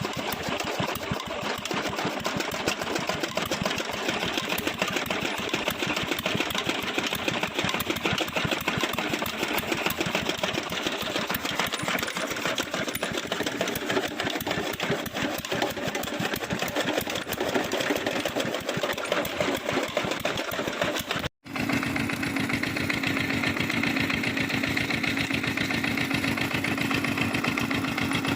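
Old stationary engine running and driving a belt-powered toka chaff-cutter machine, a fast, steady mechanical clatter. About 21 seconds in, the sound cuts off for an instant and a steadier engine hum with a held tone follows.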